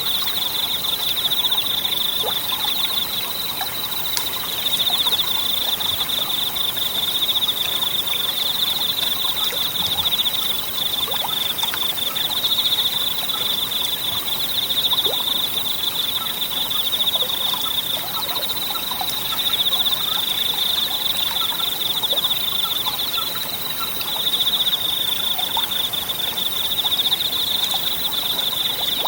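Insects calling in a steady, high, fast-pulsing trill that swells louder every few seconds, over the soft steady rush of a small forest stream.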